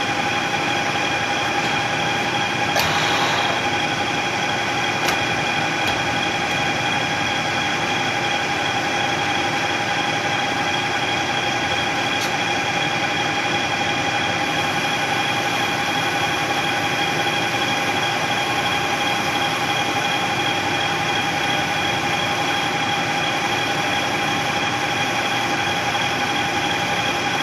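Metalworking machine tool running steadily with a constant whine while machining a billet shift knob, with a short scraping burst about three seconds in.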